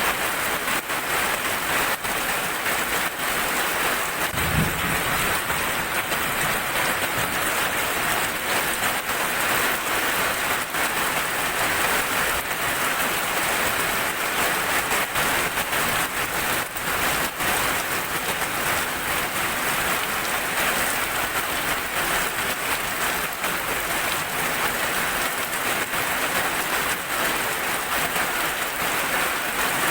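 Steady rain falling, an even hiss throughout, with one brief low thump about four and a half seconds in.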